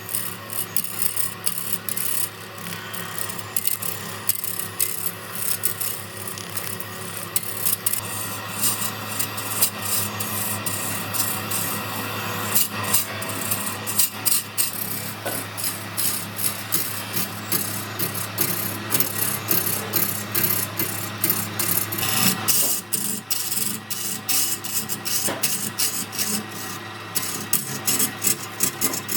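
Wood lathe running with a steady hum while a tool rasps against the spinning epoxy-and-wood blank, a continuous scraping with rapid fine ticking.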